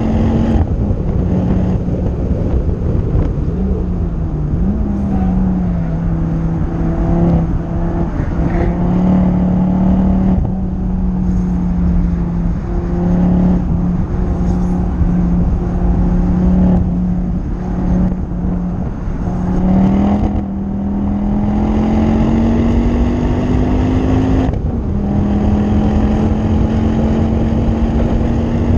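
Ford Focus ST's 2.5-litre turbocharged five-cylinder engine pulling hard on track, with tyre and wind noise. The revs drop sharply about half a second in and again near 25 seconds, as at upshifts, with a brief lift off the throttle around 20 seconds before the revs climb again.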